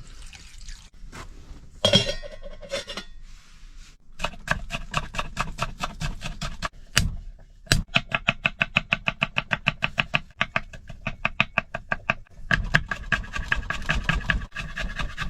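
Rapid, even knocking of a knife chopping on a cutting board, several strokes a second, in two long runs with a short break, and a couple of heavier single strokes midway.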